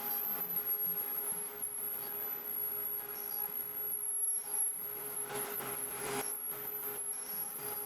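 Sorotec Basic Line 1005 CNC router's spindle whining steadily at high speed while the bit cuts the wooden inlay plug, with louder swells of cutting noise a little past the middle.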